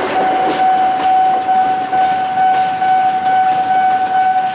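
Steel coil freight train rolling past, its wheels clacking over the rail joints, with a steady high-pitched tone sounding over the rumble.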